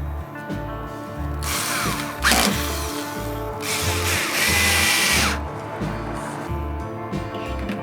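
A power drill running in two bursts of one to two seconds each, driving screws into a wooden shelf. The second burst carries a steady whine. Background music plays throughout.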